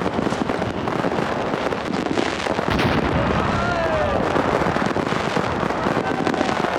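Fireworks going off: dense, continuous crackling and popping, with a few short whistles falling in pitch about three to four seconds in.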